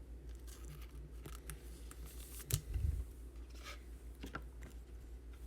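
Baseball cards being handled: soft scrapes and small clicks of card stock, with one louder bump about two and a half seconds in, over a steady low hum.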